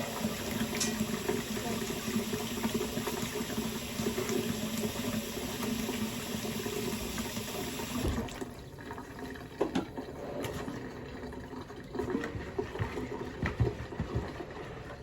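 Kitchen tap running into a sink, shut off about eight seconds in, followed by a few scattered knocks and clicks.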